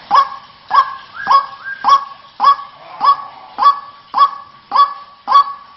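White-breasted waterhen (ruak-ruak) calling: a steady series of about ten short, sharp, honking notes, roughly two a second.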